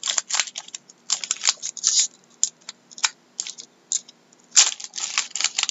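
A trading-card pack's foil wrapper being torn open and crinkled, with cards rustling and clicking as they are handled: a string of irregular crackles and short rustles.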